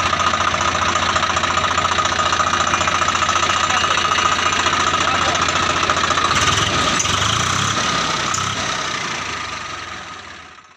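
Swaraj 744 FE tractor's three-cylinder diesel engine running steadily, fading out near the end.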